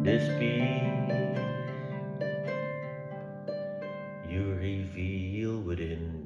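Harp playing a slow passage of plucked notes that ring and fade into one another. A wavering held tone sounds over the notes for about a second and a half, starting about four seconds in.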